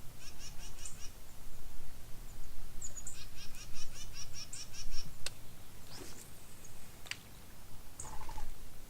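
A songbird singing two fast runs of short repeated chirps, one at the start and a longer one about three seconds in. A few sharp clicks come later, over a low background rumble.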